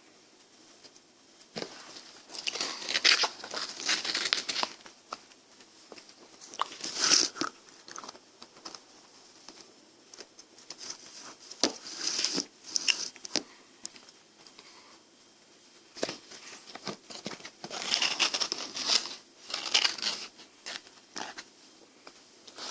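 Close-miked biting and chewing of frozen ice cream: crisp crunching in about four bouts, with quiet pauses between.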